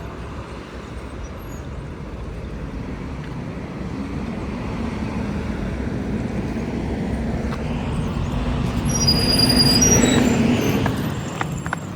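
A vehicle running, a steady hum that grows louder to a peak about ten seconds in and then eases off, with a few sharp clicks near the end.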